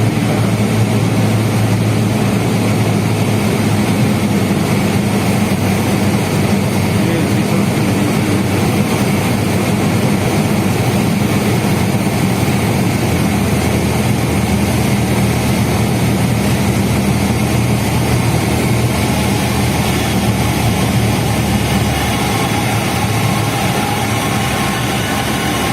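Cessna 172N's four-cylinder Lycoming engine and propeller droning steadily in the cabin during the landing approach. The engine note drops a little about halfway through.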